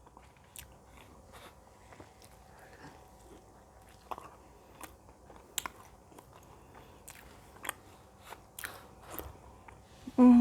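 Close-miked chewing of stuffed-crust pizza: irregular wet mouth clicks and smacks, with an occasional crisp crunch of crust.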